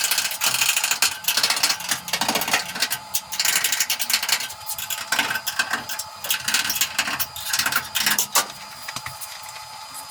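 MIG welder crackling in about six short bursts, plug welding steel body panels.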